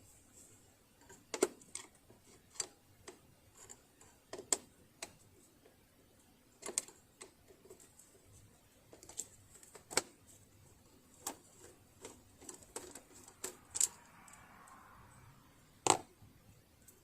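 Irregular clicks and light knocks of hand tools and small parts being handled while a Bernina Holidayne 1090 sewing machine is taken apart, with a short soft rustle about two-thirds of the way through and the sharpest click near the end.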